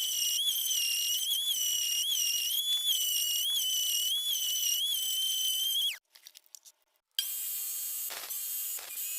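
High-pitched motor whine of a small power tool running, dipping slightly in pitch every half second or so. It cuts off about six seconds in, and after a short gap a tool starts again at a lower pitch, with a few brief dips as it bites.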